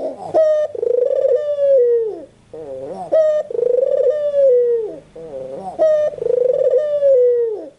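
White ringneck dove (puter putih) cooing in repeated phrases, about three in all. Each phrase starts with a sharp rise, holds a long falling note and ends in shorter wavering notes.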